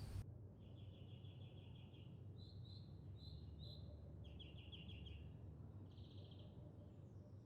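Faint songbird chirping: a string of short rapid trills and single chirps with brief pauses between them, over a low steady rumble.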